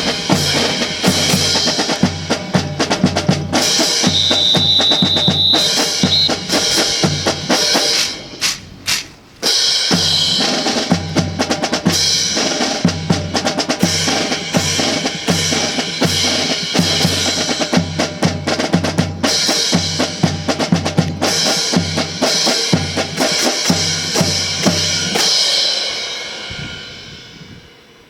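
Drums playing a fast, driving percussion rhythm of snare, bass drum and rim strikes. The rhythm drops out briefly about eight seconds in, and a high steady tone sounds for a moment a few seconds in. The drumming fades out near the end.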